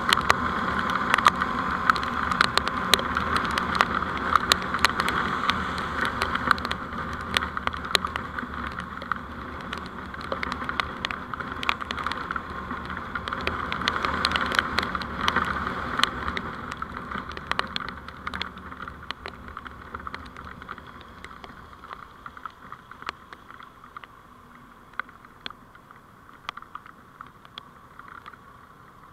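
Vehicle driving noise picked up by a dash camera, with frequent sharp crackling clicks; it grows quieter after about 17 seconds.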